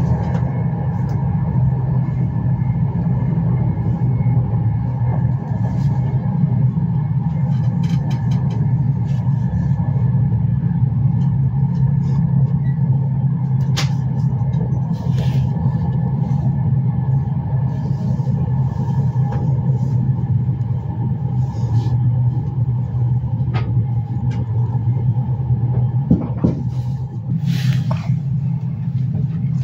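Intercity passenger train running along the track, heard from on board: a steady low rumble with a faint steady whine above it. A few brief higher noises break in now and then, the clearest one about 27 seconds in.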